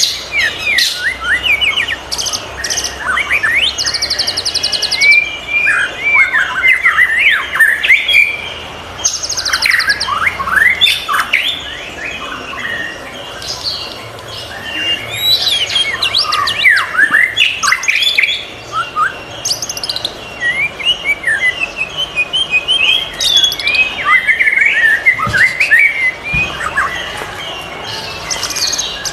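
White-rumped shama (murai batu) singing: fast, varied whistled phrases in bursts, with short harsh rasping notes now and then, over a faint steady high background tone.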